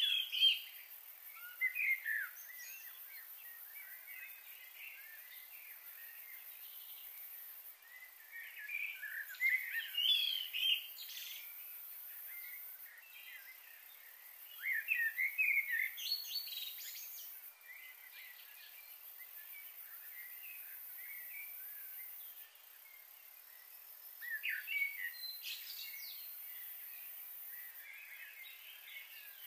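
Small birds chirping in short flurries every several seconds, over a faint steady hiss.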